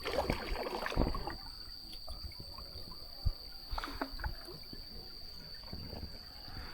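Kayak paddle dipping and pulling through water, with water trickling and dripping off the blade; the splashing is strongest in the first second and a half, then lighter drips and small knocks. A steady high tone runs underneath.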